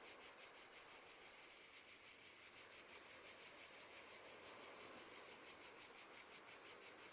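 Crickets chirping faintly in a steady, rapid pulse of about six chirps a second.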